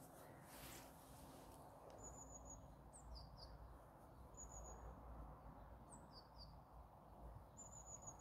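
Faint bird chirping: a short high trill and a quick pair of chirps that recur about every two to three seconds, over a low steady rumble.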